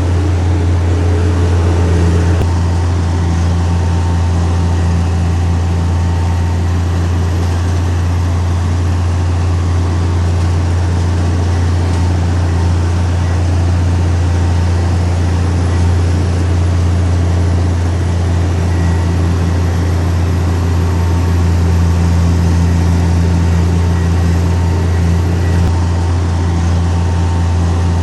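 Heavy diesel engine of earthmoving machinery running steadily under a constant low hum.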